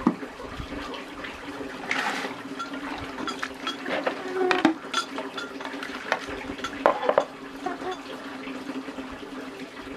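Running water over a steady low hum, with scattered clinks and knocks of kitchenware being handled; the sharpest knocks come around the middle of the stretch.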